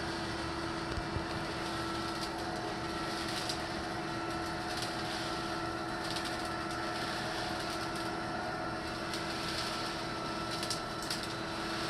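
Litter-Robot 3 drive motor running with a steady hum as the globe turns, broken by several short, sharp pops scattered through it.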